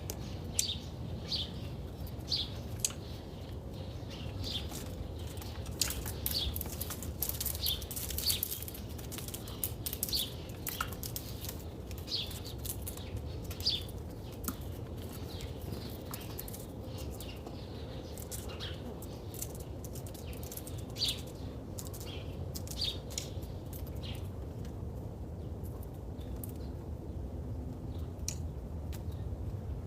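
Small birds chirping over and over in short, high notes, several in quick succession at times and thinning out near the end, over a steady low background rumble.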